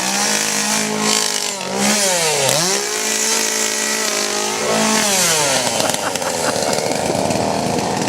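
Two-stroke chainsaw engine running at high revs. Its pitch dips and recovers about two and a half seconds in, drops again around five seconds, and then runs on as a rougher, rattling buzz.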